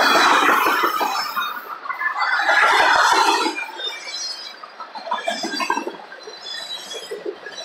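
Freight cars of a CSX manifest train rolling past close by, wheels clattering over the rails with short squeals, the sound easing in the middle and swelling again near the end.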